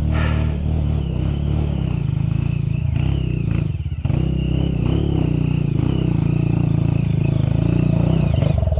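Off-road dirt bike engine working hard up a steep trail climb, held at high revs with a brief dip in throttle about four seconds in.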